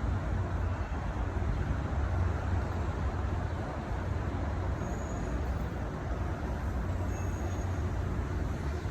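Steady low rumble of distant city traffic, with no single vehicle standing out.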